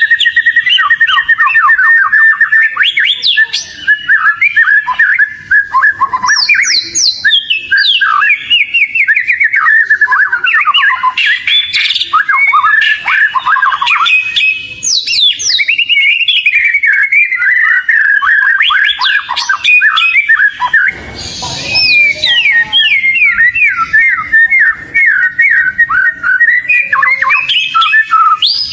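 Oriental magpie-robin (kacer) singing an unbroken, fast stream of chattering and whistled notes, full of rapid trills and quick falling sweeps. There is a brief rush of noise about 21 seconds in.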